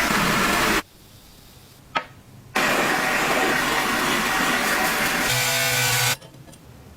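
A power tool running in two loud bursts, each cutting off abruptly, with a single click in the quiet between them. A steady hum joins in during the last second of the second burst.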